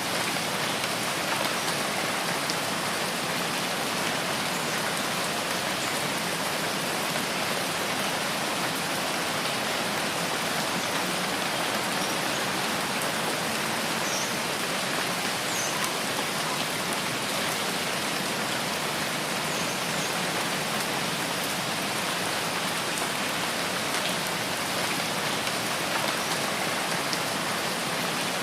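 Steady rain falling on rain forest vegetation, an even unbroken hiss, with a few faint high chirps about halfway through.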